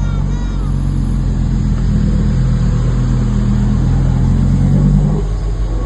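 Car engine running under load, its note building and rising slightly, then easing off about five seconds in.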